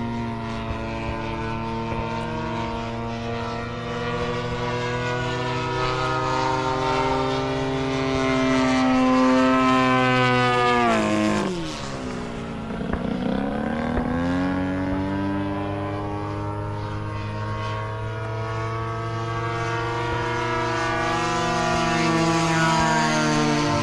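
Radio-controlled model airplane's propeller engine running in flight, a buzzing note that swells louder, drops sharply in pitch about halfway through and climbs back up, then rises again near the end.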